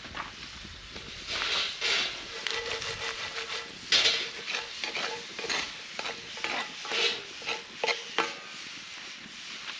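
A utensil scraping and stirring in a pan in irregular strokes, with food frying on the campfire.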